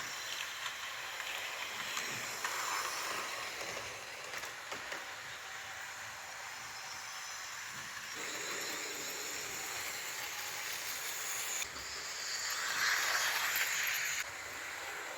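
H0-scale model train running on its track: a steady whirring hiss with a few light clicks, growing louder for a couple of seconds near the end.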